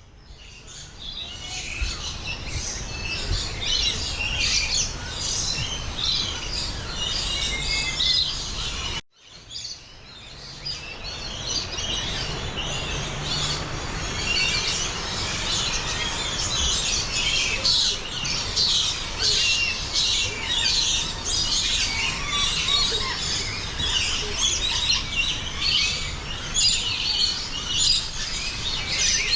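Many small birds chirping and twittering together in a dense, continuous chorus. A low steady rumble sits underneath. The sound cuts out briefly about nine seconds in, then fades back up.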